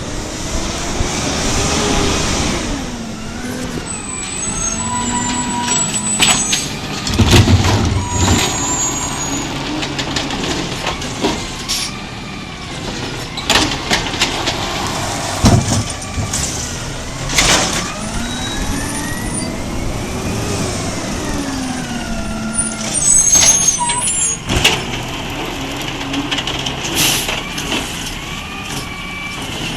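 Garbage truck at work: its engine revs up and drops back twice, with several sharp clanks and knocks in between.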